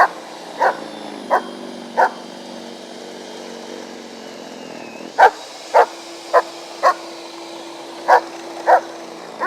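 A dog barking in short runs of sharp barks, about two a second, in groups of four, four and two. A snow blower's engine runs steadily underneath.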